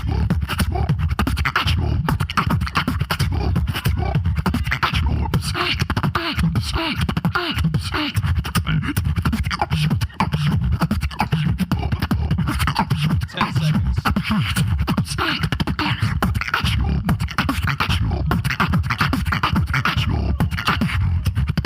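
Solo vocal beatboxing over a microphone and PA: fast, dense mouth-percussion clicks and snares over a continuous heavy bass line, with a brief break about ten seconds in.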